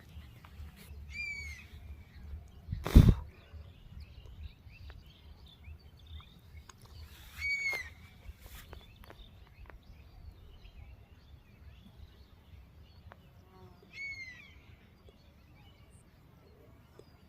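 A bird calls three times, each a short falling call, about six seconds apart, over a steady low rumble. A single loud thump comes about three seconds in.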